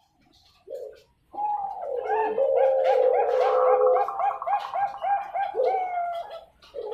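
Zebra doves (Thai-bred perkutut bangkok) cooing: after a short single note, a rapid run of repeated coo notes, about four a second, that ends in a longer drawn-out note.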